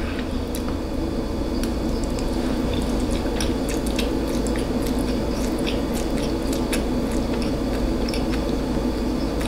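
A person chewing food close to the microphone, with soft wet squishes and many small mouth clicks.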